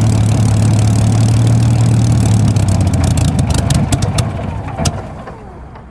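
Spitfire's Rolls-Royce Merlin V12 idling and then shutting down: the steady low drone fades away from about halfway through, with a run of sharp clicks as the engine and propeller run down.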